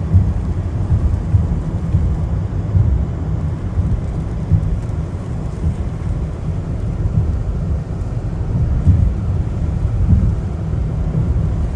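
Steady deep rumble of a car driving on a wet road in the rain: tyre, road and rain noise heard from inside the cabin.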